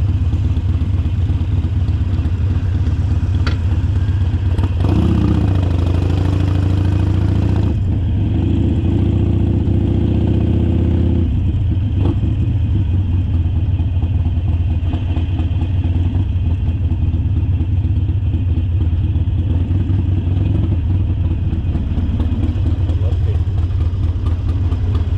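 Harley-Davidson Forty-Eight's air-cooled 1200 cc V-twin running steadily under way, with a deep, even engine note. About five seconds in, a higher wavering engine note joins it and drops out some six seconds later.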